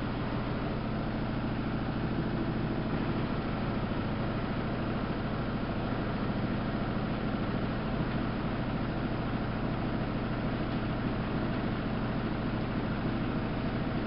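Samsung WF71284 washing machine running: a steady machine hum with several low tones and an even whir, with no change in pace.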